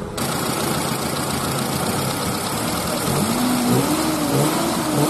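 Car engine running just after being started, with a steady, dense mechanical noise. It runs without the abnormal noise it used to make on acceleration, now that the timing belt has been refitted and its tensioner reset.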